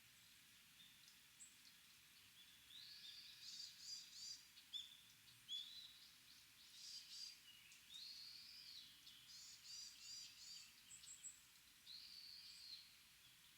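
Small songbirds calling: many quick, high chirps and short runs of repeated notes, several in close succession from about two and a half seconds in until near the end, faint over a steady background hiss.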